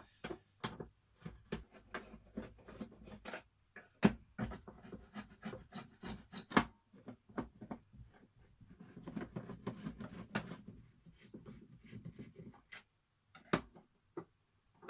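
A hand screwdriver backing screws out of the plastic base of a vintage National Jet-Flo cylinder vacuum cleaner: scraping, rubbing turns with sharp clicks and knocks as the machine and screws are handled. The loudest knocks come about four seconds in and again near six and a half seconds.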